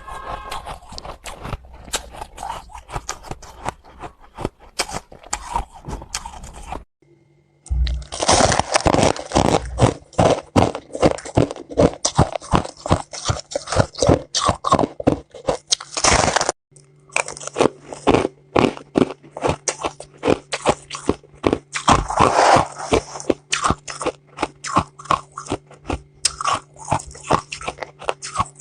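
Hard ice being bitten and chewed close to the microphone: a dense run of crisp, rapid crunches. The crunching breaks off briefly about seven seconds in and again around sixteen seconds, and a faint steady hum lies under the later part.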